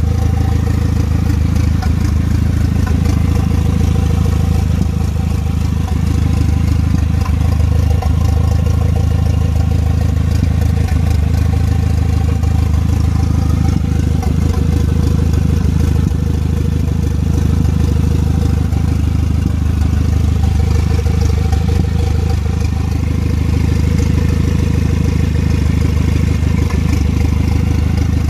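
Renault F4RT 2.0-litre turbocharged four-cylinder idling steadily with no exhaust fitted, during its first warm-up after an engine swap, running unmapped on a Twingo GT ECU.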